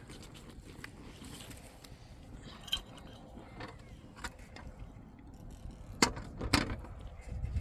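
A low rumble with a few scattered sharp knocks and clicks, the two loudest close together about six seconds in.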